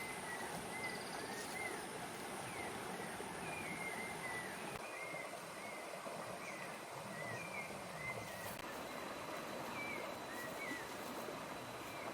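Rainforest ambience: a steady hiss with a bird chirping short, curved notes again and again, a few every second.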